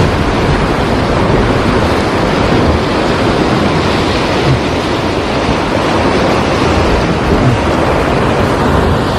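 Heavy surf breaking and washing along the shore in a steady, loud wash of noise, with wind buffeting the microphone.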